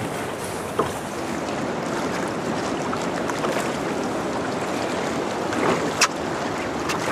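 Steady rush of a fast-flowing river current, with two sharp clicks, a faint one about a second in and a louder one about six seconds in.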